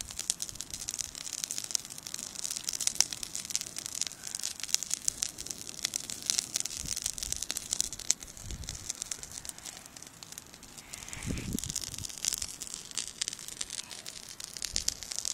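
Beach bonfire crackling and popping with dense, irregular snaps. Two brief low rumbles come in, one past the middle and one a few seconds later.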